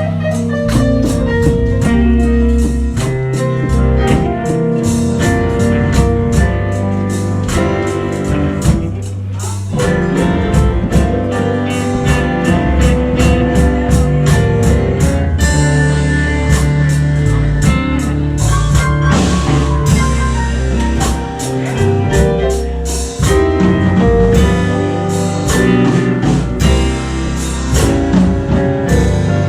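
Live blues band playing an instrumental passage: guitar over a drum kit keeping a steady beat, with no singing.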